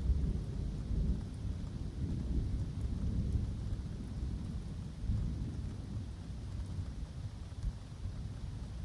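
Thunder rolling in a long low rumble that swells several times, over steady rain in woodland.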